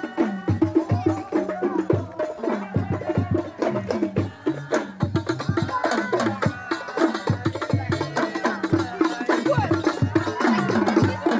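Hand drums beaten in a fast, dense rhythm, with voices singing sholawat over them.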